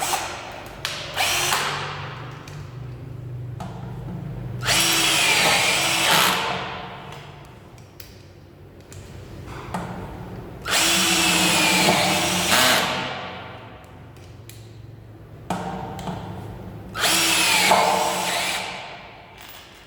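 Bosch-branded 36V cordless drill driving screws: three runs of a second or two each, the motor winding up and down under load. The first screw goes in on the slow drilling setting and is a bit weak.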